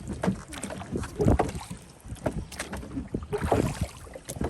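Rowing a wooden clinker dinghy: oars knocking irregularly in the rowlocks and dipping into the water, with a low rumble of wind on the microphone.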